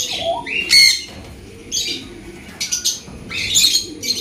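Birds squawking and chirping: a series of short, high, harsh calls, roughly one a second, some with quick rising or falling pitch.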